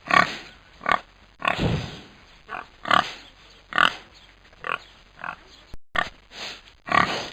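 Animal calls: short, separate cries repeated about once or twice a second, with a brief break near six seconds in.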